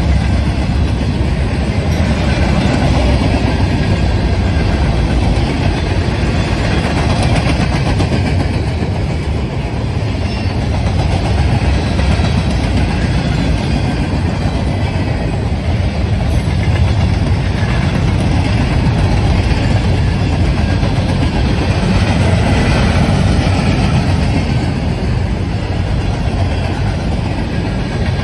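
Train rolling past close by: a steady, loud rumble of wheels on the rails that holds for the whole stretch.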